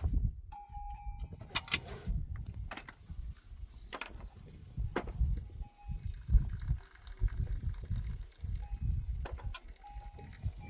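Livestock bells on goats clinking now and then, with several sharp knocks, over a low, uneven rumble.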